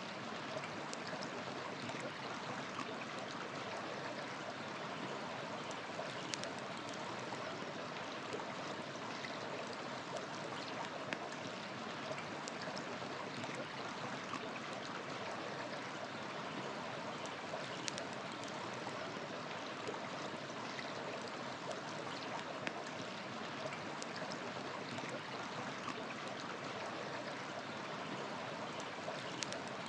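River water flowing steadily, with a few sharp crackles from a wood campfire scattered through it.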